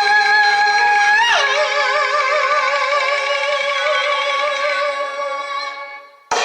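Peking opera music: one long held note slides down about a second in, then carries on with wide vibrato and slowly fades away. Music breaks in loudly again just at the very end.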